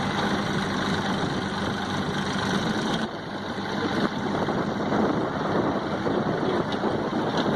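Mahindra tractor's diesel engine running steadily, with an abrupt change in the sound about three seconds in.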